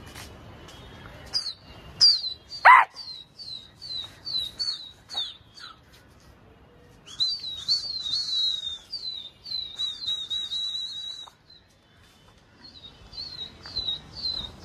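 Birds chirping over and over in short, high, falling notes, a few a second, with a busier stretch of warbling chirps in the middle and one loud, lower falling call near the start.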